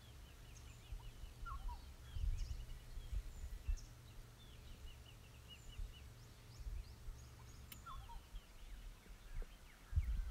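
Wild birds calling in a steady series of short, high, falling chirps over a low rumble.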